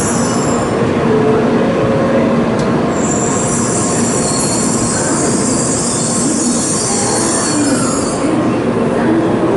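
Tokaido Shinkansen train running slowly into the station, its wheels giving a high squeal that stops about eight seconds in. Under the squeal is a steady rumble, and near the end some tones fall in pitch as the train slows.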